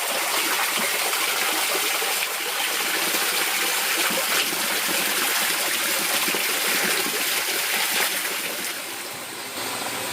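Cascading mountain water rushing steadily, a dense splashing hiss that drops slightly near the end.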